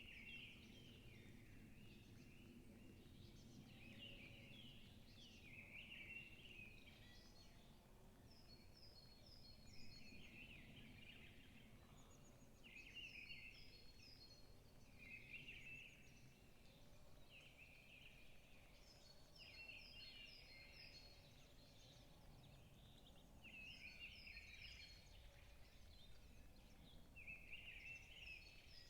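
Forest birds singing, faint: one bird repeats a short warbled phrase every two to three seconds, while another gives quick runs of high, evenly spaced notes every several seconds, over a low steady background rumble.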